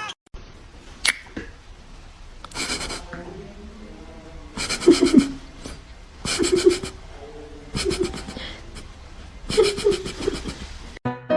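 A person laughing in about five short bursts of rapid pulses.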